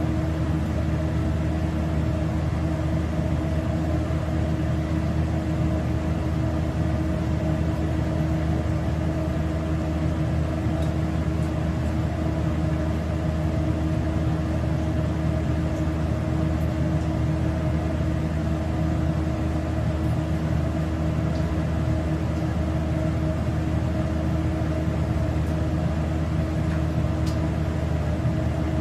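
Steady mechanical hum of a running motor, even and unchanging throughout.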